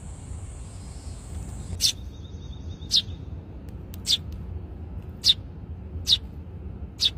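Eurasian tree sparrow giving single sharp chirps, six in all, about a second apart, over a steady low background rumble.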